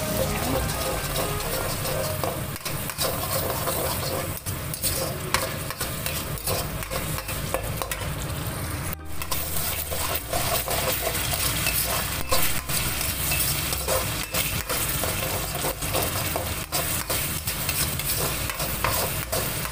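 Sambal spice paste of blended shallots, shrimp paste and chili frying and sizzling in hot oil while it is stirred, with frequent scrapes and clicks of the utensil against the pan. The sound breaks off briefly about nine seconds in.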